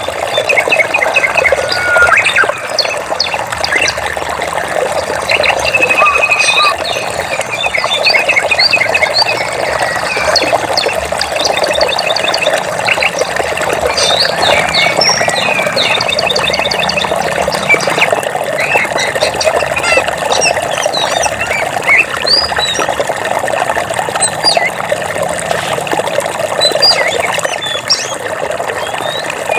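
Many birds chirping and trilling over a steady rush of flowing water.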